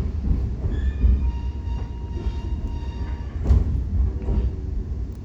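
Metra commuter train running, heard from inside a passenger coach: a steady low rumble, with a thin high squeal for about two seconds and a sharp knock a little past the middle.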